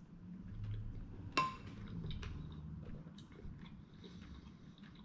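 A person chewing a mouthful of mussel, with soft mouth sounds and small clicks. About a second and a half in, a ceramic soup spoon clinks once against the cup, with a brief ring.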